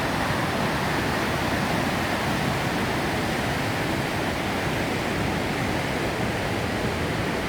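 Fast-flowing river rushing past in a steady, unbroken whitewater rush.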